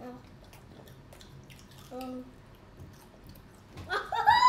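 Children chewing fried breaded mozzarella bites: faint wet mouth clicks and chewing, with two short hummed 'mm' sounds, one at the start and one about two seconds in. Near the end a child lets out a loud, high-pitched, wavering vocal squeal.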